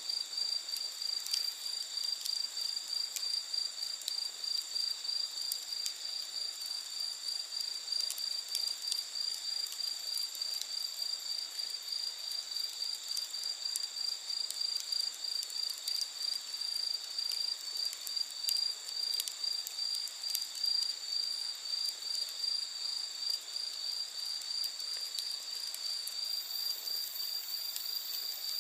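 Crickets trilling steadily in a fast, even pulse, with scattered small crackles from a wood campfire.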